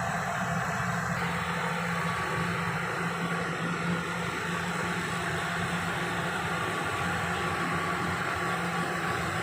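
Turbo T600 engine-driven turbine sprayer running steadily: a constant engine hum under the rushing blast of its fan blowing pesticide spray high into the trees.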